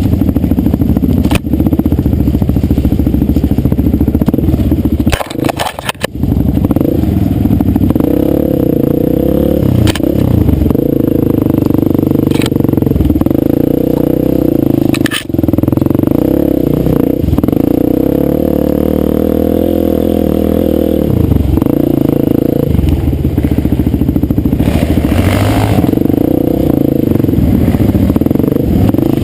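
Dirt bike engine running under a rider, its revs rising and falling as it is ridden, with a brief drop in engine sound about five seconds in and a few sharp knocks and clatter from the bike.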